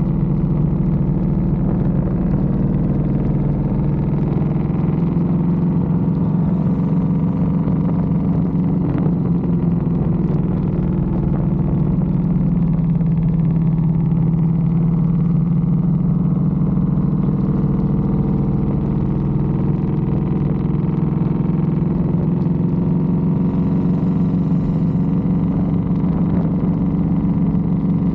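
Motorcycle engine running while riding along at a fairly steady pitch.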